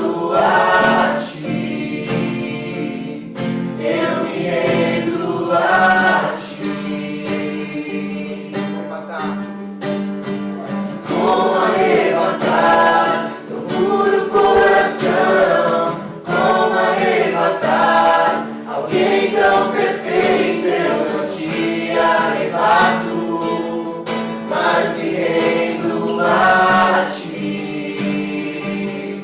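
A small group of voices singing a worship song together, with an acoustic guitar strumming the accompaniment.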